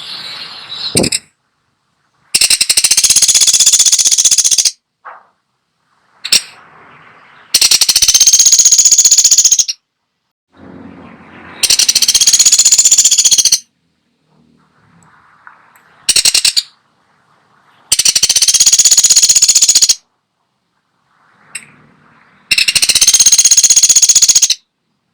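Pelatuk sampit woodpecker giving long, fast, high rattling calls of about two seconds each, five times at intervals of about five seconds, with a couple of short single notes between them.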